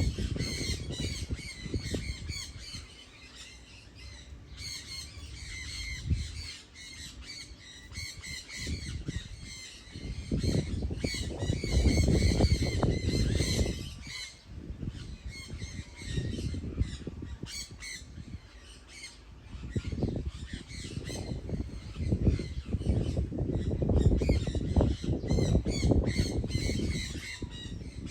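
A flock of birds calling with many quick, repeated squawks and chirps, over an uneven low rumble that swells and fades.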